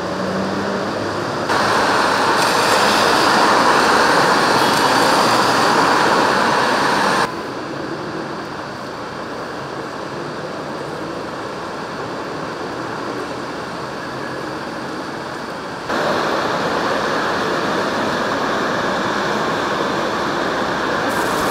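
Heavy rain falling steadily on a city street, rain splashing on wet pavement and puddles, with traffic on the wet road. The loudness steps up or down suddenly three times as the recording changes.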